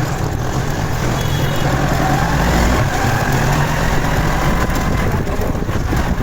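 Motorcycle engine running steadily while riding, with wind and road noise on the bike-mounted phone's microphone.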